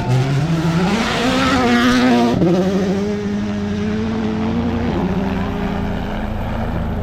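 Rally car engine accelerating hard, revs climbing for about two seconds, then dropping sharply on an upshift and holding steady under throttle, with a brief dip about five seconds in.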